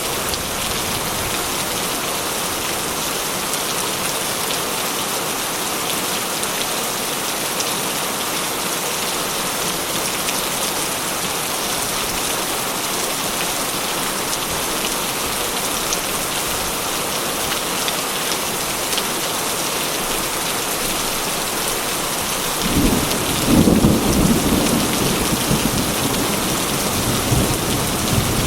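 Heavy rain drumming steadily on a metal roof. About three quarters of the way through, a low rumble of thunder rolls in and swells again near the end.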